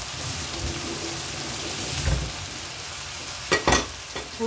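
Soy-chunk bulgogi with vegetables and green onion frying in a pan: a steady sizzle, with a few soft low knocks and two sharp clicks near the end.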